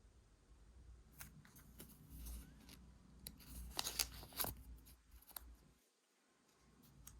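Scissors snipping paper, a run of sharp little snips and paper rustles that is busiest about four seconds in, then briefly stops about six seconds in.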